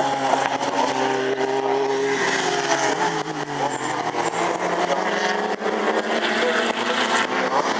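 Several racing sports car engines running hard past the trackside, their notes overlapping and sliding in pitch as they rev and shift.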